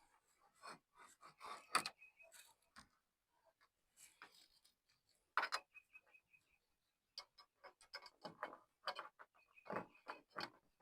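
Scattered light clicks and knocks at an irregular pace, with a few brief high squeaks between them, from tools and parts being handled during hood work.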